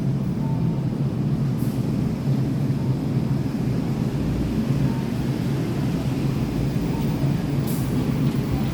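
Mitsubishi Fuso Aerostar city bus diesel engine idling steadily, with two short faint hisses, about a second and a half in and near the end.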